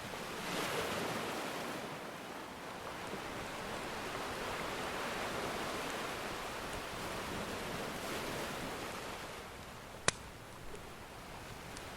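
Ocean waves washing onto the shore in slow swells, with the faint crackle of a wood fire and one sharp pop about ten seconds in.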